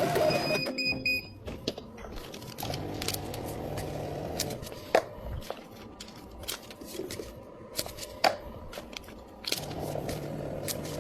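Drink-shop counter work: scattered clinks and knocks of cups and utensils over a low steady hum, the two loudest knocks about five and eight seconds in. A short high electronic beep sounds about a second in.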